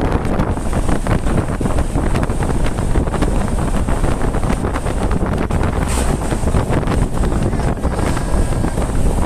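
Steady rumble of a moving car with wind buffeting the microphone, and small knocks and rattles throughout.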